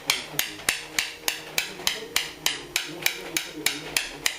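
A Yale bump key being struck over and over in the keyway of a Diamond lock, about three sharp metallic taps a second, to bump the pin stacks so the lock opens.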